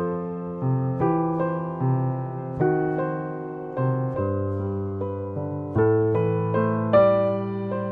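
Solo piano instrumental: slow, gentle chords and a melody, each struck note fading before the next.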